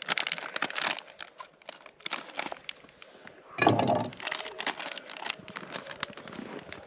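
Crinkling and tearing of a plastic food packet being pulled open and handled, in quick bursts, with one louder bump about three and a half seconds in.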